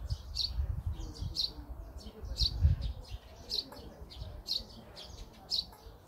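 A small bird chirping over and over, short high calls about once a second, over a low uneven rumble.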